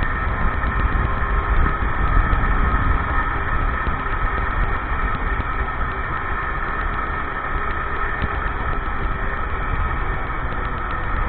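Motorcycle engine running steadily at low revs, with a continuous low rumble.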